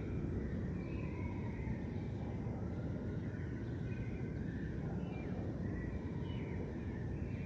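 Several birds chirping and whistling in short, overlapping calls over a steady low rumble.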